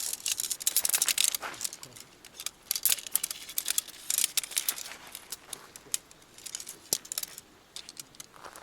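Handling noises: several bursts of crinkling with light clinks and ticks, as when gear is packed or unpacked by hand.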